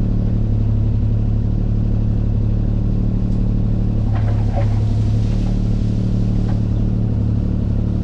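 Heavy-equipment diesel engine running steadily at a constant speed, with a few faint knocks partway through.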